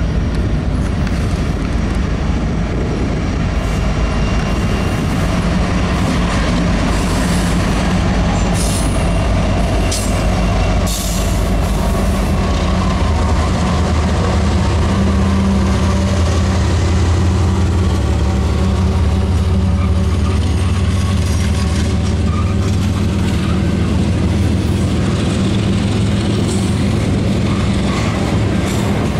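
Union Pacific intermodal freight train led by a Tier 4 SD70ACe passing close by: the diesel locomotives' engines drone loudest about halfway through. Then the double-stack container cars roll past with steady wheel and rail noise.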